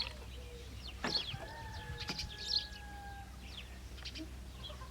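Small birds chirping in quick, short high calls, with one long drawn-out call starting about a second in and lasting about two seconds.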